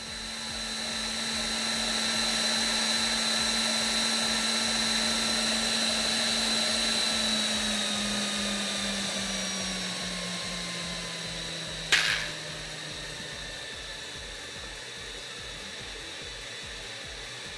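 Handheld fan with a brushless drone-type motor running at high speed: a steady whine over rushing air. About seven seconds in, its pitch and loudness slowly drop as the fan slows. A single sharp click comes about twelve seconds in, and the fan then keeps running more quietly.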